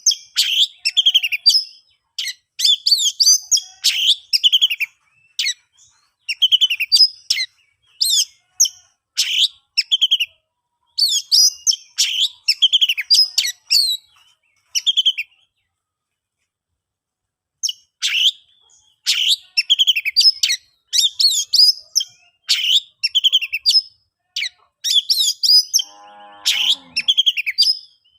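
Oriental magpie-robin singing: rapid runs of loud, high chirps and phrases, broken by a pause of about two seconds halfway through. Near the end a brief, lower-pitched call sounds under the song.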